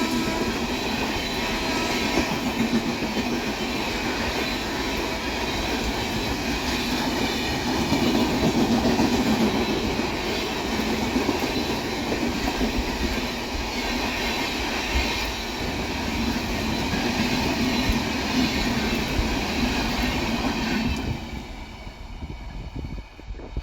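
Indian Railways express train passing close by at speed: a steady rush of wheels on rail with clickety-clack as the coaches go by, just after a horn blast dies away at the start. The noise drops away suddenly about 21 seconds in as the last coach passes.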